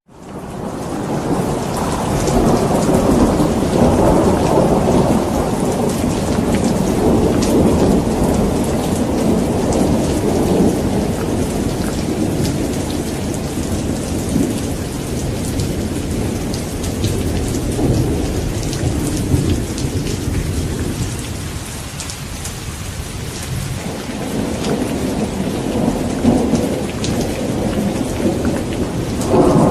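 Steady heavy rain pattering, under long rolling thunder that rumbles on and off, easing a little past the middle and building again near the end. The sound drops out almost to silence at the very start and swells back in within about a second.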